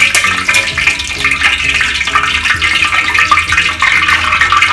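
Hot oil sizzling and crackling in a wok as deep-fried marinated pork pieces are drained in a wire strainer above it, a dense, steady crackle of many small pops.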